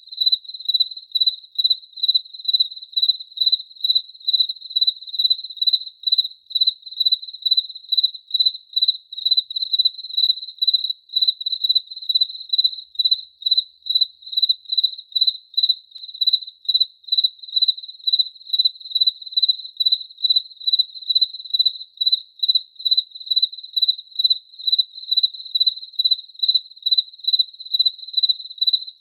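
A cricket chirping in an even, unbroken rhythm, about two high, pure-toned chirps a second.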